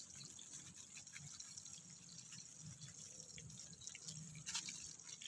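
Faint sizzle of tomatoes frying in oil, with small scattered pops and one sharper click about four and a half seconds in.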